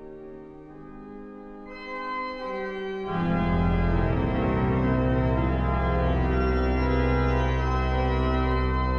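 Refurbished sanctuary pipe organ playing sustained chords. A little under two seconds in, higher notes are added, and about three seconds in deep bass notes enter as the sound grows louder and is held.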